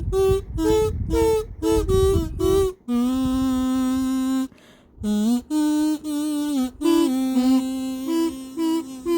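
Kazoo playing a made-up tune: a run of short, bouncing notes over low thumps, then long held notes from about three seconds in, stepping between a few pitches, with a brief break near the middle.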